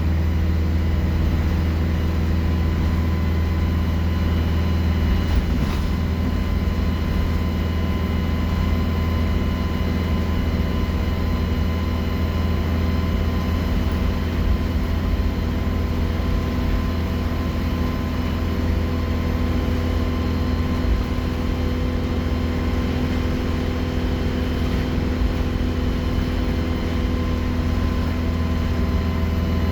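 Alexander Dennis Enviro 200 single-deck bus running steadily under way. Its engine gives a deep, constant drone, with a thin high-pitched turbo whistle above it that drifts slightly in pitch.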